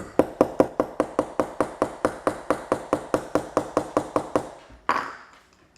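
A hammer tapping a short nail into the wood of a kit-built toy airplane: a quick, even run of blows, about five a second, that grows quieter near the end as the nail goes home.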